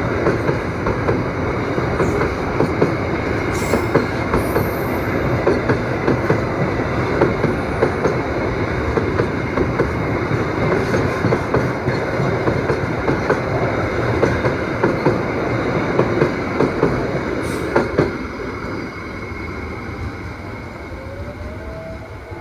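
A train passing close by at speed, its wheels clattering rapidly over the rail joints. About 18 seconds in the clatter drops away and fades as the train moves off.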